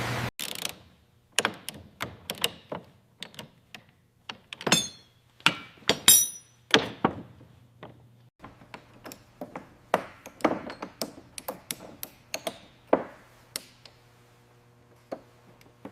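A loud rushing hiss cuts off right at the start. Then come irregular knocks and taps on metal, with a few ringing metallic clinks, over a faint steady hum.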